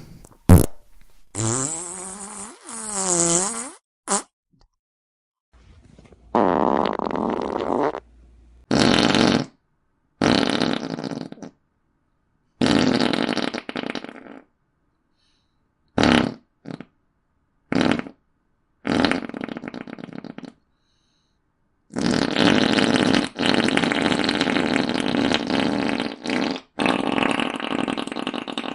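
A run of about ten fart sound effects, one after another with short silences between: an early one with a wavering, creaky pitch, several short blasts in the middle, and a long drawn-out one in the last seven seconds.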